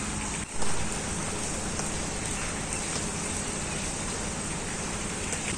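Steady rain falling, an even hiss, with a brief dropout about half a second in.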